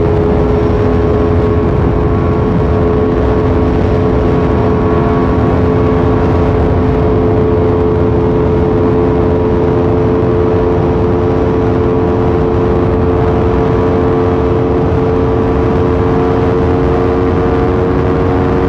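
Motorcycle engine running at a steady highway cruise, its pitch climbing very slowly, with heavy wind rush over the microphone.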